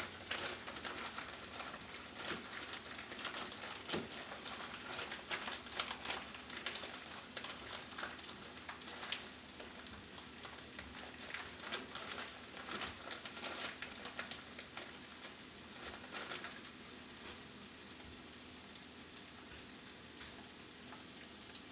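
Chopped onion sizzling and crackling in olive oil in a frying pan, a steady patter of small pops that is busier in the first half and settles to a thinner sizzle later.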